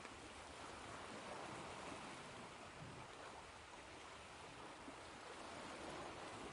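Faint, steady wash of ocean waves, swelling gently at times.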